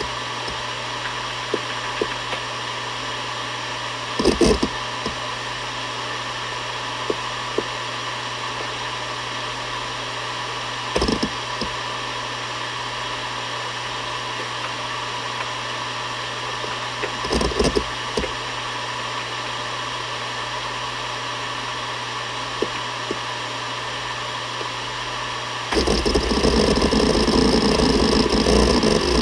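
Seagate Barracuda ES.2 ST31000340NS 7200 rpm hard drive spinning with a steady hum and whine, broken by three short bursts of head-seek clatter and a few faint ticks. About 26 s in the drive noise turns louder and rougher.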